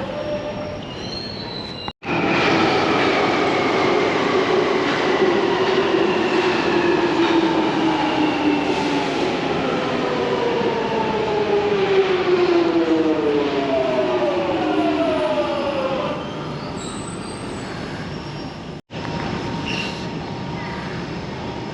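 London Underground Jubilee line train braking into the platform, its motor whine sliding steadily down in pitch for about fourteen seconds. It then settles to a quieter steady hum as it comes to a stop.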